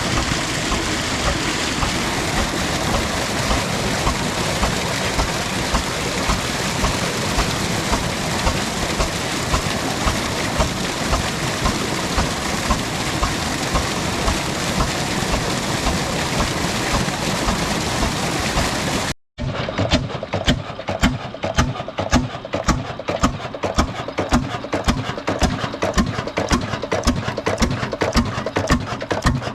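Old Ruston diesel engine running a tubewell, with a slow, regular beat. For most of the time the beat sits under a dense, steady rushing noise. After a sudden brief dropout near the end, the knocks stand out clearly at about two a second.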